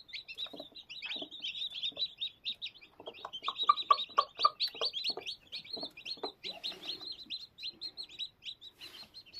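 A brood of twenty newly hatched Aseel chicks peeping continuously, many short, high, falling cheeps overlapping. Lower clucks, likely from the mother hen, come in from about three to four and a half seconds in.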